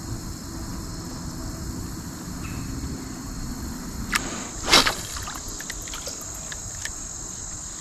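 Outdoor river ambience from a kayak, with a steady high insect drone over a low rumble. About halfway through come two short, sudden knocks, the second the loudest, followed by a scatter of light clicks.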